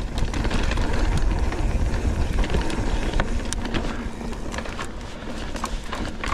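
Mountain bike riding fast down a dirt trail: wind buffeting the microphone, with tyres on dirt and the bike rattling over bumps in many small clicks and knocks.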